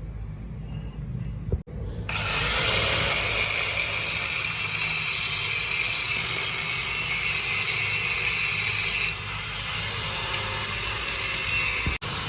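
A workshop power tool grinding or cutting metal: a harsh, steady abrasive noise that starts suddenly about two seconds in, eases a little near nine seconds and stops abruptly near the end. A low machine hum comes before it.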